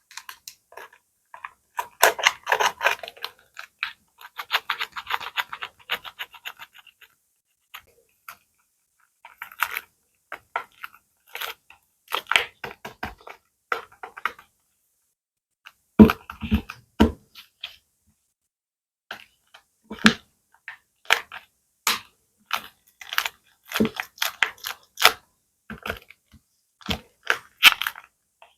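Close-miked hand sounds: crinkling and rustling with irregular crackles and clicks, and a few sharper, louder taps about halfway through.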